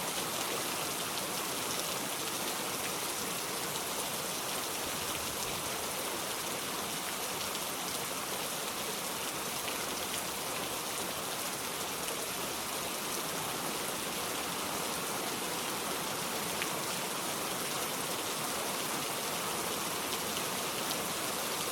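Steady rain falling: an even hiss with faint scattered drop ticks, unchanging in level.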